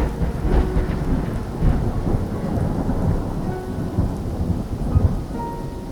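Sea waves lapping and washing on the shore, with a gusty, uneven low rumble of wind running under the water noise.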